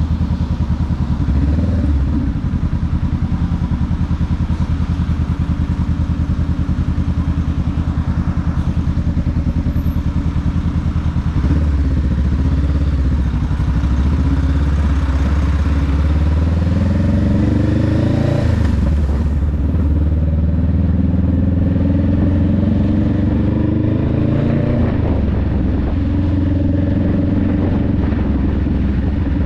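Honda Rebel 500's parallel-twin engine and exhaust under way. It holds a steady note at first, then gets louder and climbs in pitch under acceleration before dropping sharply at a gear change. A shorter rise and drop follow near the end.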